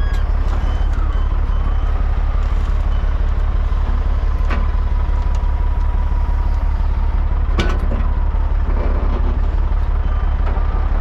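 Dump truck's diesel engine running steadily, a loud low drone with a faint high whine over it. Two sharp clicks come about three seconds apart.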